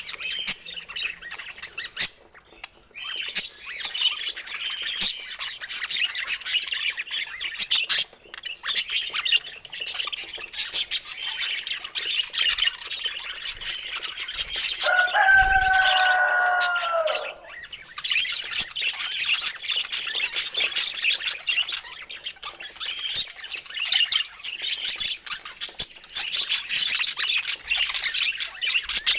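Budgerigars chattering and warbling nonstop in quick, high chirps and clicks. About halfway through, a lower, longer call holds for about two seconds and dips slightly in pitch at its end.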